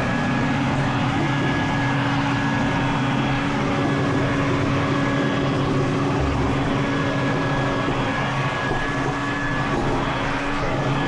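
Vacuum cleaner running steadily, sucking dust and lint out of a dryer cabinet.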